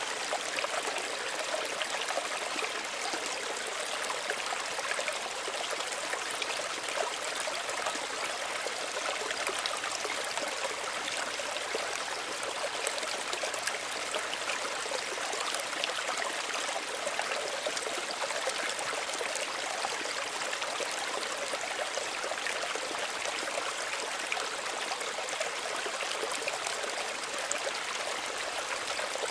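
Small stream running: steady trickling and babbling water, mostly high and bright, with little low rumble.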